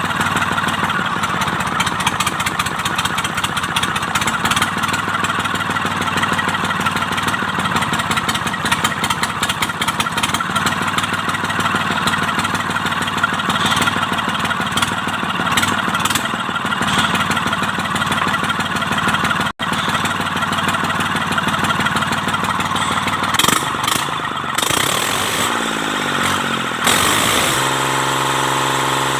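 Mitsubishi K3E three-cylinder diesel engine running steadily with a rapid, even pulse; in the last few seconds its pitch shifts up and down in steps as the speed changes.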